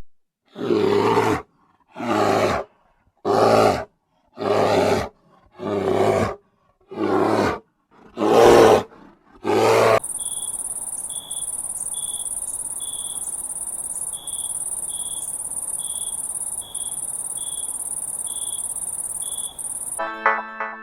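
An animal calling eight times, loud repeated calls about a second apart, followed by about ten seconds of steady high insect chirring with a short regular chirp repeating under it.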